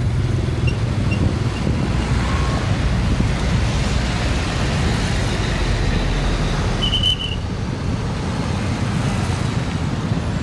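Road traffic with heavy trucks passing, their diesel engines running as a steady low rumble that eases a little about seven seconds in. A brief high-pitched chirp sounds just before the rumble eases.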